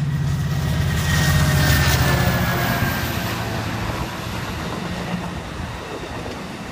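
Diesel-hauled passenger train of six cars passing close by. The engine rumble peaks about a second and a half in, then fades as it goes away, with a faint falling whine.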